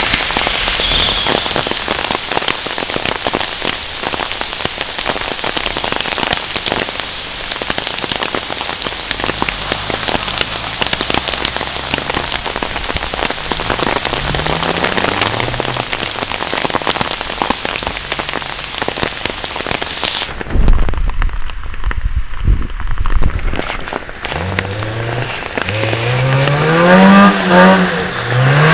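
Dense crackling patter of rain on the microphone. A Toyota Tercel's engine revs up in short rising pulls several times in the second half, and the sound goes muffled with a low rumble for a few seconds about two-thirds in.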